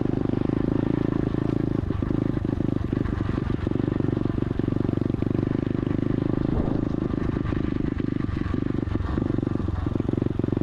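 SSR 125 automatic dirt bike's single-cylinder engine running at a steady speed as the bike is ridden.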